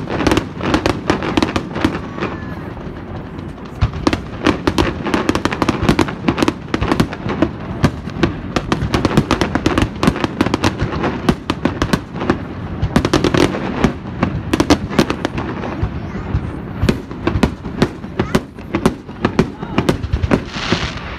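Aerial fireworks bursting in quick succession, many sharp bangs and crackles a second, over the chatter of a watching crowd. A hissing crackle swells near the end.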